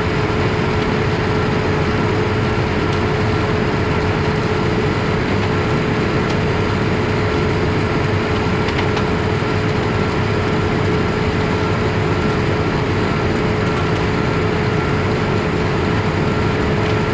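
Steady cabin roar inside a Boeing 787-8 airliner: engine and airflow noise with a constant droning hum underneath, unchanging throughout.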